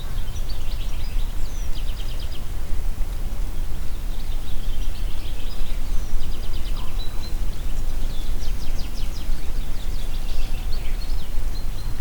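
Steady wind with a low rumble, and songbirds singing rapid high trills in several phrases, one after another.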